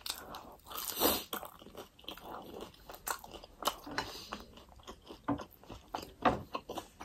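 Close-up chewing of a crisp fried momo dumpling: a run of irregular short crunches and wet mouth clicks, a little louder about a second in.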